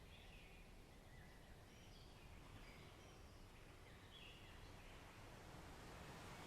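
Faint birdsong, scattered short chirps, over a low steady rumble of wind and distant surf. A wash of waves swells up near the end.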